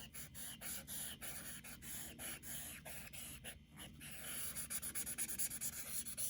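An eraser rubbed back and forth over charcoal on drawing paper, blending and lifting the shading, in quick hissing strokes. The strokes come about three a second at first and speed up to about five a second in the second half.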